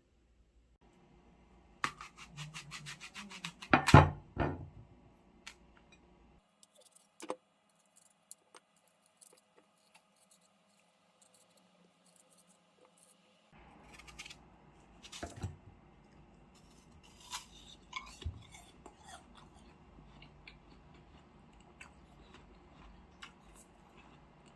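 Close handling noises: a quick run of clicks, then a couple of loud knocks, followed by scattered clicks and, later, faint rubbing and scratching.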